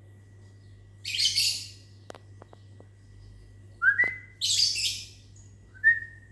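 Lovebirds giving two shrill, harsh bursts of calls, about a second in and again just after the middle, answering short rising whistles from a person. A few sharp clicks come between the bursts.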